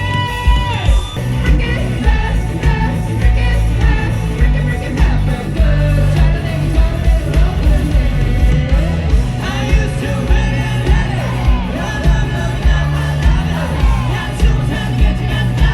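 Live rock band playing with a steady, heavy beat under a sung lead vocal, with shouted lines.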